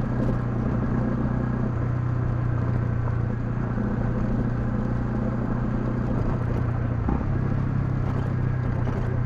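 Honda CL250 single-cylinder engine running at a steady cruising speed under way, with wind and road noise around it; the note dips briefly about seven seconds in, then settles again.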